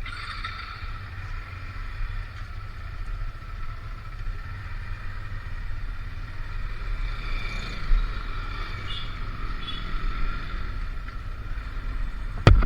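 Motorcycle running with a steady low rumble. A single sharp knock comes near the end.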